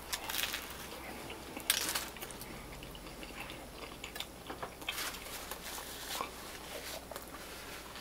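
Close-miked biting and chewing of a grilled chicken sub topped with broccoli rabe: scattered wet crackling mouth sounds, with one louder burst about two seconds in.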